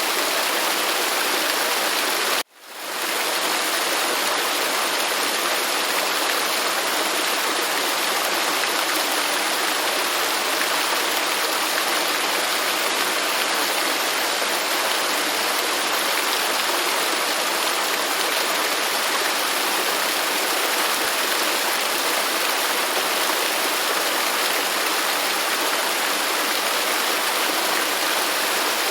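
Waterfall: a steady, even rush of falling water. About two and a half seconds in, the sound cuts out for an instant and fades back in within about half a second.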